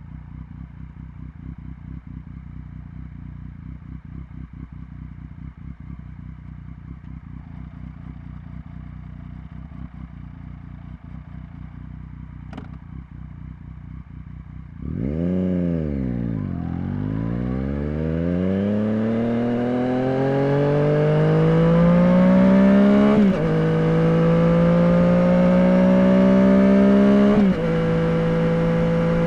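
Yamaha FZ-09's 847 cc inline three-cylinder engine idling steadily, with a brief click about twelve seconds in. About halfway through it gets louder as the bike pulls away: the revs dip, then climb, and drop back twice as it shifts up through the gears.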